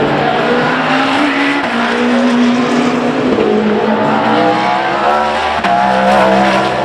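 Race car engines running hard on track, loud, with the pitch gliding and stepping at gear changes about three and five and a half seconds in.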